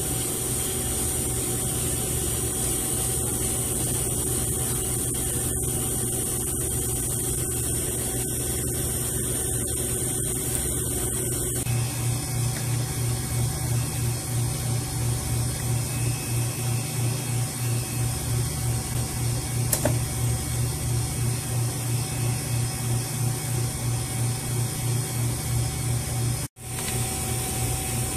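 Vacuum pump running steadily while evacuating a walk-in cooler's refrigeration system after a compressor replacement. About twelve seconds in, the low hum takes on an even pulsing of roughly three beats a second, and near the end the sound cuts out for an instant.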